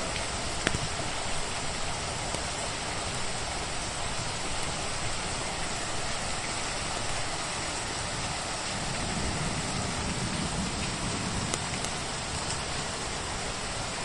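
Steady rain falling, a constant even hiss, with a few sharp pops from a crackling wood fire.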